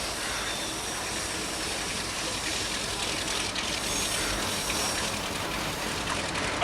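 Passenger train running past on a curve: a steady rush of wheels on the rails that grows slightly louder, with faint brief squeals now and then.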